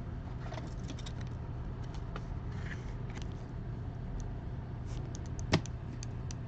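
Baseball cards being handled and flipped, small ticks and rustles of card stock over a steady low hum, with one sharper click about five and a half seconds in.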